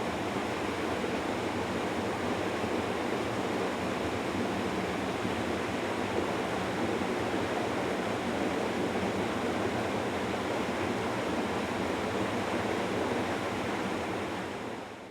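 Mountain stream water rushing steadily over rocks, a constant full rush that fades out at the end.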